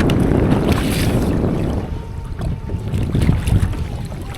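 Wind buffeting the microphone over water, heavy for about two seconds and then easing, with a few light clicks.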